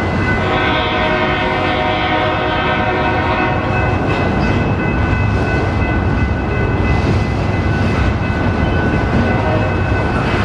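Union Pacific freight train rolling past, its locomotive horn sounding one long blast from about half a second to four seconds in, over the steady rumble of the cars; a few steady high tones run underneath.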